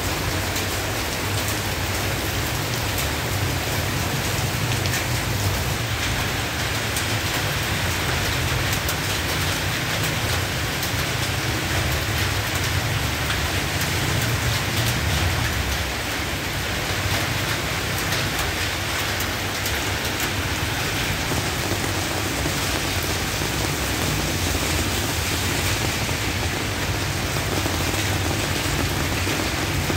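Heavy tropical rain falling steadily, splashing on wet pavement: a continuous even hiss with a low rumble underneath.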